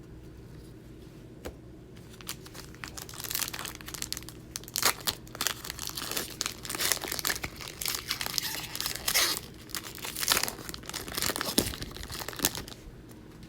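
A plastic trading-card pack wrapper being torn open and crinkled in the hands. It crackles in quick, irregular bursts from about three seconds in until shortly before the end.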